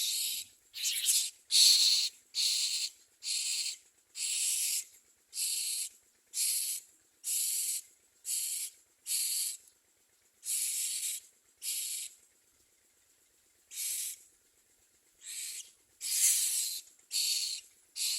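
Common myna nestlings giving harsh, hissing rasps, about half a second each, repeated in a long series with short pauses and one longer break.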